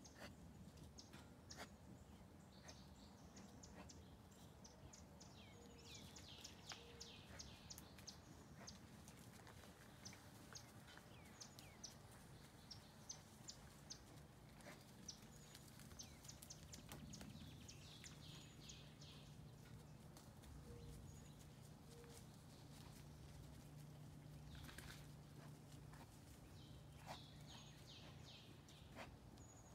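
Faint backyard ambience near silence: a small bird calling in short runs of quick high chirps, several times over. Scattered soft clicks and rustles run throughout, and a low steady hum comes in during the second half.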